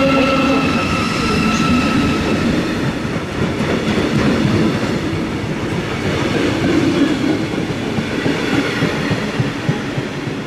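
Train passing close by on the rails: a loud, dense running and wheel noise, with a thin steady whine over it for the first couple of seconds, easing off near the end.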